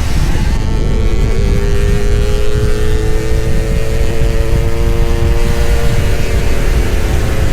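Suzuki Satria 'Lumba' two-stroke motorcycle engine running hard at speed. Its pitch dips about a second in, then holds steady and creeps slowly upward, under heavy wind noise.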